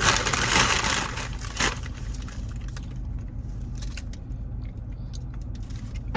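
Car cabin road rumble from a moving car, with crunching and rustling in the first two seconds, then a few small clicks.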